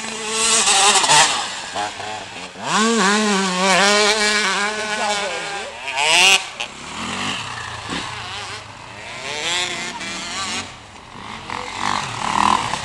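Motocross motorcycle engines revving, the pitch swooping up and down as the throttle opens and closes, with loud bursts about a second in and around the middle.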